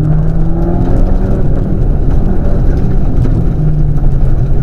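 Rally car's engine running hard at high revs on a tarmac stage, heard from on board. The pitch holds high, dips briefly twice and climbs again as the throttle is lifted and reapplied.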